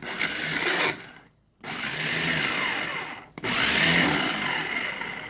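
Electric food processor motor running in short pulses while it minces ginger and lemongrass. It stops about a second in, then runs twice more with a brief pause between.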